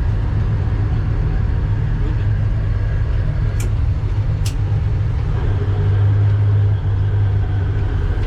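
Service boat's engine running with a steady low drone, and two brief sharp clicks in the middle.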